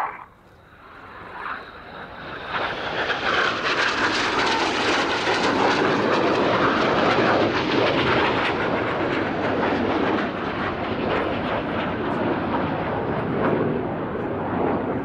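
BAE Hawk T1 jet trainers flying past, their Rolls-Royce Turbomeca Adour turbofans making a broad jet rush. The noise swells over the first two to three seconds and then stays loud.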